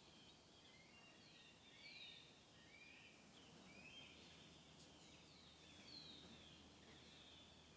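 Faint chorus of small birds: many short, overlapping chirps that fall in pitch, a little louder around two seconds and six seconds in.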